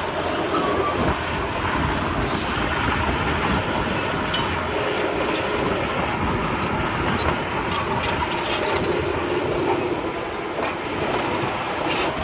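Komatsu D31P crawler bulldozer working: its diesel engine runs steadily under load, with scattered metallic clanks and squeaks from the steel tracks.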